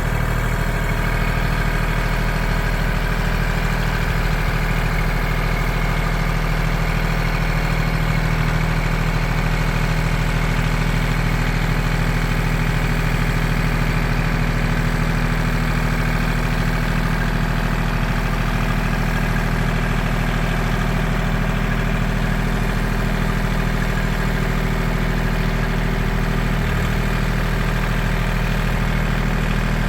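Engine running steadily at an even speed, its pitch holding constant throughout.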